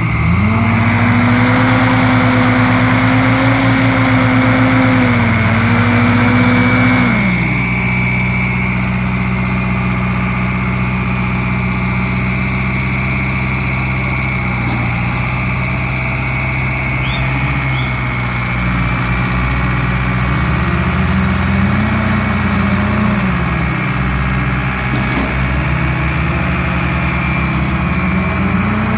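Tractor engine running hard and steady at high revs, then the revs drop about seven seconds in and it runs on at a lower, steady pitch, rising briefly a couple of times. The tractor is short of power and labouring on a climb.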